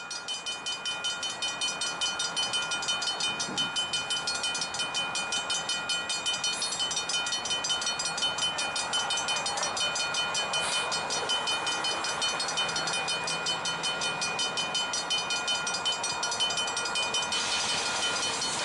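Railroad warning bell ringing steadily in quick, even strokes, about four or five a second, with a faint train rumble beneath.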